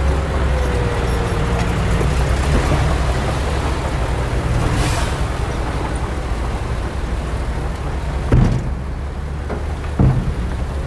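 Heavy diesel earthmoving machinery running steadily with a deep engine drone. There is a brief hiss about five seconds in and two sharp thumps near the end.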